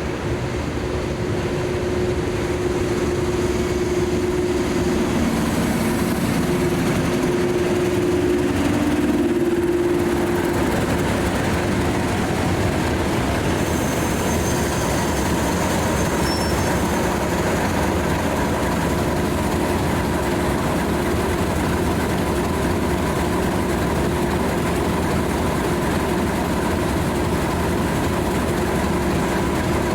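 Diesel locomotive engine running, growing louder over the first couple of seconds and then holding steady, with a hum that wavers in pitch about a quarter of the way through.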